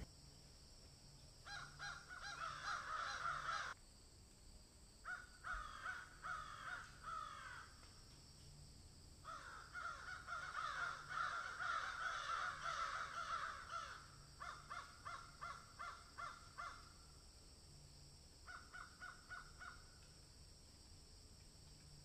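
Birds calling in several bouts of rapid, repeated calls, with short pauses between the bouts.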